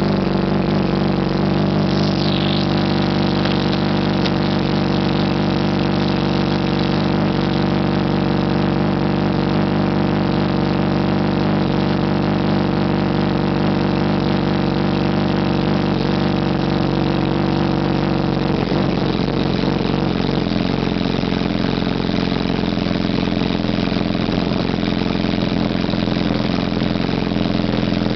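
2008 Yamaha R1's inline-four engine idling steadily through a Two Brothers Racing slip-on exhaust, warming up after a cold start. The idle note shifts slightly about two-thirds of the way through.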